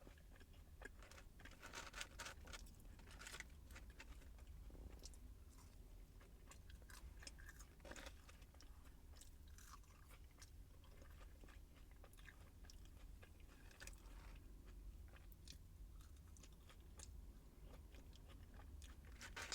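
A person chewing food, with faint crunching and small mouth clicks scattered throughout.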